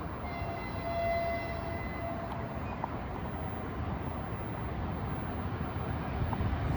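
Approaching freight train hauled by a 2ES4K electric locomotive: a steady low rumble that grows toward the end. Near the start, one steady high tone is held for about two seconds.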